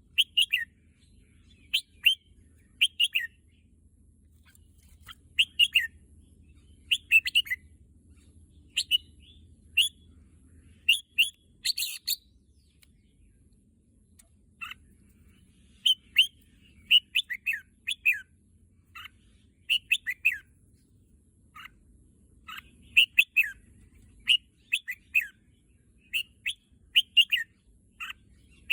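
Red-whiskered bulbul singing short, bright phrases of a few quick falling notes, repeated every second or two, with a brief lull about halfway through.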